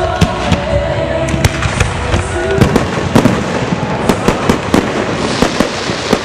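Aerial fireworks bursting in quick succession, several sharp bangs a second, coming thicker about halfway through, with music playing under the first half.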